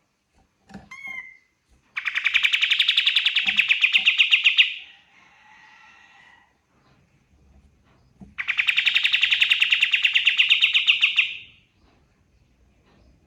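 Kapas tembak songbird singing: two long, fast trills of about three seconds each, with a short call about a second in and softer twittering between the trills.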